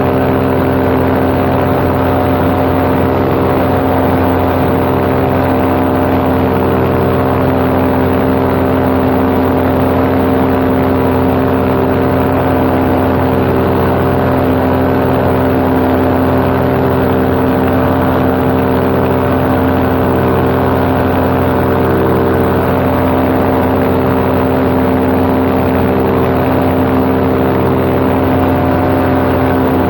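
Paramotor engine and propeller running steadily at cruise power in flight, a loud, even drone with no change in pitch.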